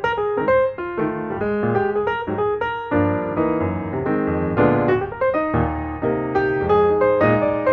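Background music: a bright piano tune played in quick, even notes, with a fuller, lower accompaniment coming in about three seconds in.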